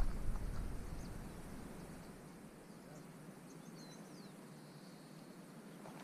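Quiet dry scrubland with a faint steady hiss, a low rumble on the microphone fading out over the first two seconds. A small bird gives a few short high chirps and one falling note about three and a half to four seconds in.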